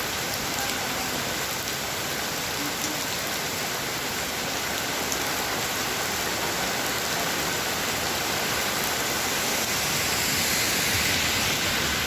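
Heavy rain falling steadily, an even dense hiss of drops, swelling slightly near the end.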